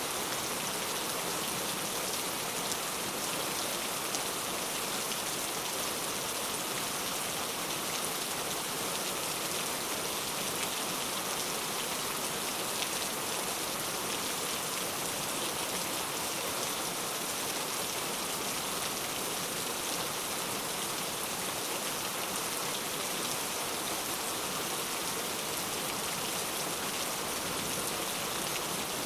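Heavy rain falling steadily, a dense even hiss of drops with fine patter.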